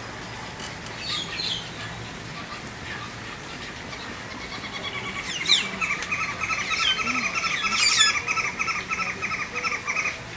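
Several small birds calling: a few sharp falling whistled notes, and from about halfway in a fast, continuous chattering trill.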